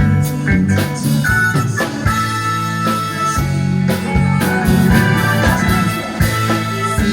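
Live band playing a song, with drums and guitar, at a steady beat.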